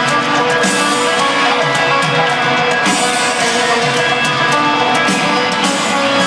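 Live country-rock band playing: electric guitars over a drum kit, loud and continuous.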